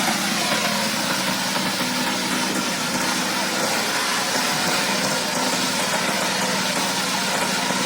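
Power tiller engine running steadily.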